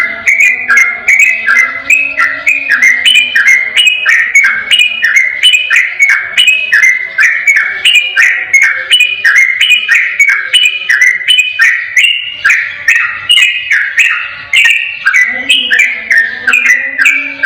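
Yellow-vented bulbul (trucukan) singing a long unbroken 'ropel' song: quick bubbly phrases of stepped whistled notes repeated about twice a second without a pause.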